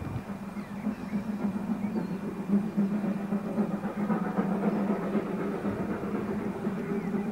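Railway train sound: a steady engine drone that slowly grows louder.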